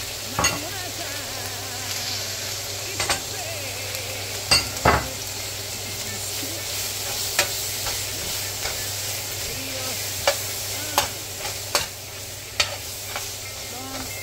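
Sliced onions and red bell peppers sizzling steadily in oil in a frying pan, stirred with a slotted metal spoon that knocks and scrapes against the pan every second or two, loudest in a double knock about five seconds in.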